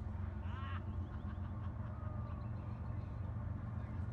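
A bird calls once about half a second in, with a fainter call near two seconds, over a steady low rumble.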